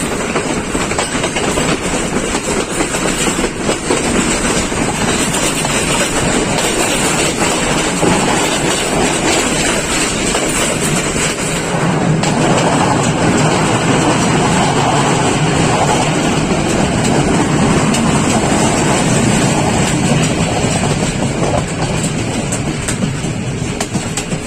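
Night Mail passenger train running along the track, its wheels clattering over the rails under a steady rumble that gets a little louder about halfway through.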